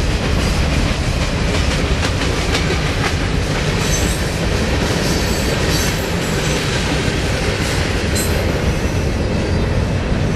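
Freight train cars rolling past at speed: a steady rumble of steel wheels on the rails with a clickety-clack over the rail joints, and a few faint high-pitched squeals around the middle.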